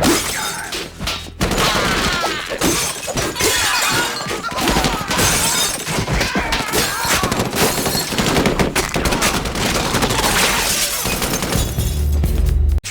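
Film fight sound effects: dense, rapid gunfire mixed with glass shattering and breaking, ending with a sudden cut near the end.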